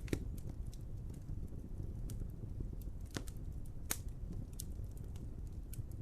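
Wood fire crackling: a steady low rumble of burning with scattered sharp pops and snaps, the loudest about four seconds in.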